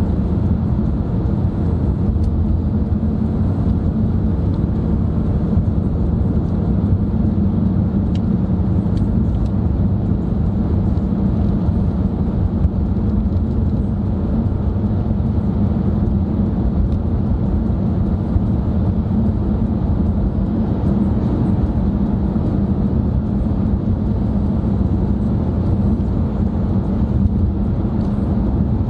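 Steady drone of a car driving at cruising speed, heard from inside the cabin: engine and tyre road noise holding even, with a low hum and no change in speed.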